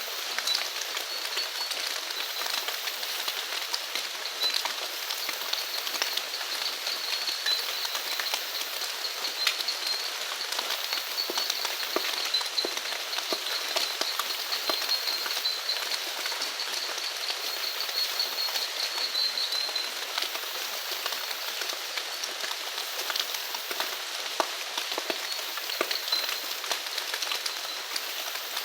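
Steady rain falling, with individual drops tapping close by. Behind it runs a continuous high-pitched chirping of animals.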